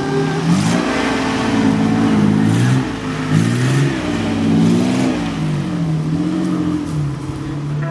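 Engine of a modified Nissan Terrano trial car revving up and down as it drives over rough, sandy ground; the pitch rises and falls several times.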